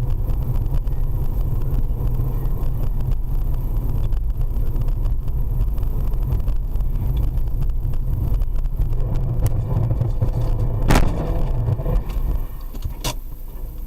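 Steady low rumble of a car driving, recorded on a dashcam, with one sharp loud bang about eleven seconds in and a smaller knock about two seconds later; the rumble drops off after the bang.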